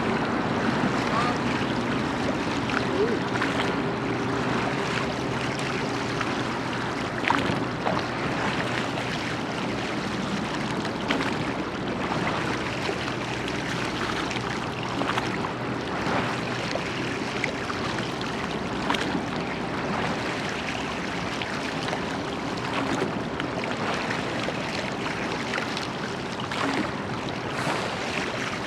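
Water washing along the hull of a church boat, a large rowing boat, under way on a river, with a light knock about every four seconds.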